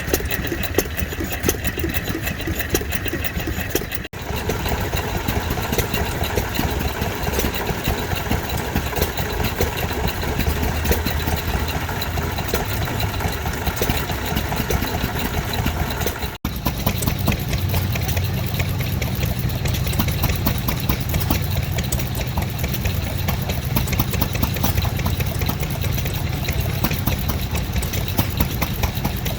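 Vintage stationary engines running steadily with a rapid, regular mechanical beat. The sound breaks off abruptly twice, about four and sixteen seconds in, each time coming back with a different engine note; the last part has more low rumble.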